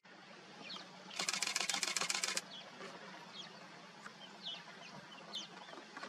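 Birds giving short, falling chirps, with a fast, even rattle lasting just over a second, starting about a second in.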